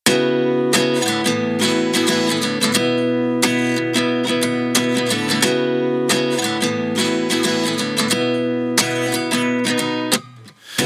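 Background music: an acoustic guitar intro of plucked and strummed chords, dropping away briefly near the end.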